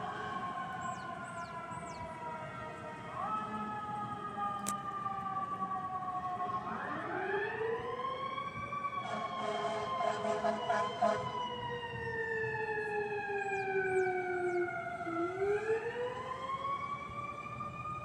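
Fire apparatus sirens wailing with slow glides: a fall, a climb about seven seconds in, a long slow fall and another climb near the end. Short repeated blasts cut across the wail for a couple of seconds in the middle.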